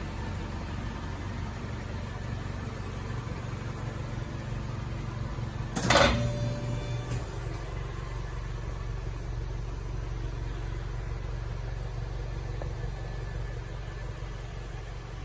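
2023 Lexus NX250's 2.5-litre naturally aspirated four-cylinder idling steadily through an aftermarket exhaust with a transverse muffler and four tips, with one short loud burst about six seconds in.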